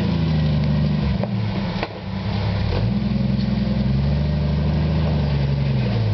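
Off-road vehicle's engine revving under load as it climbs a rock obstacle: the pitch rises, falls off briefly about two seconds in, then climbs again and holds before easing near the end. A few sharp knocks come in the first two seconds.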